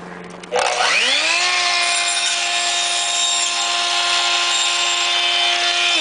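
Electric miter saw switched on about half a second in, its motor whine rising quickly to full speed and then running steadily while the blade cuts styrofoam crown molding. Right at the end the whine starts to fall as the saw winds down.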